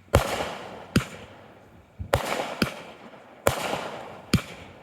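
Consumer fireworks going off: about six sharp bangs in under five seconds, several of them followed by a fading crackling hiss.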